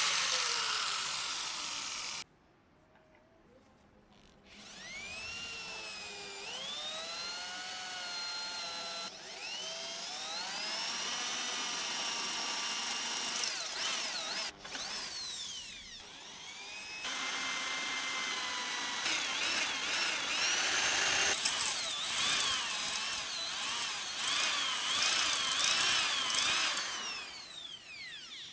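Electric power tool motor whining on metal, its pitch dropping and climbing as the load changes, in several short clips cut together with a brief quiet gap near the start.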